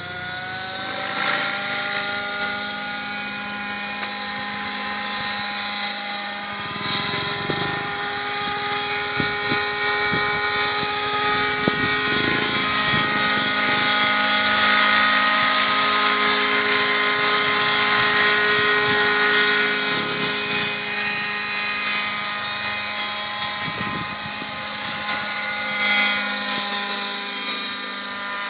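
Align T-Rex 700 Pro RC helicopter running on its Zenoah 26cc two-stroke petrol engine in flight, with engine and rotor noise. The engine note rises about a second in, then holds steady with small changes in pitch.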